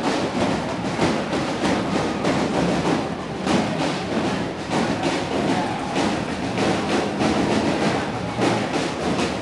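Procession drumming: a dense, irregular run of drumbeats over a steady background of street noise.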